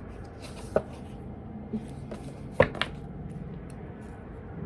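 A few light, sharp clicks or taps from tarot cards being handled on a table, the loudest a close pair a little past the middle, over a quiet room background.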